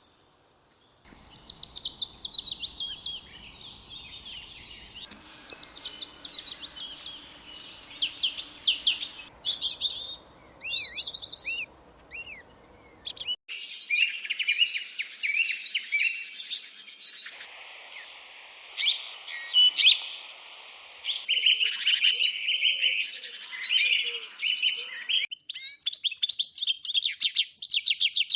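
Small birds chirping and twittering, many quick high calls and trills overlapping. The background noise under the calls shifts abruptly several times.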